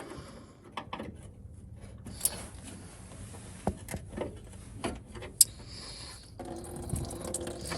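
Scattered clicks and knocks of hands and a tool working the radiator drain plug open. About six seconds in, a steady run of coolant into the drain pan begins.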